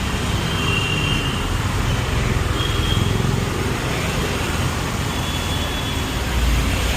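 Road traffic passing on a city street: a steady rumble of engines and tyres that swells as vehicles go by, with a few faint short high tones.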